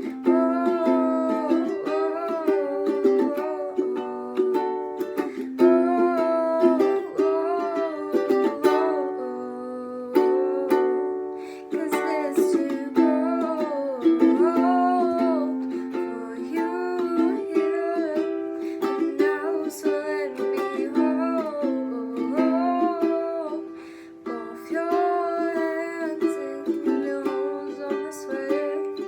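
Ukulele strummed, with steady chords under a moving melody line.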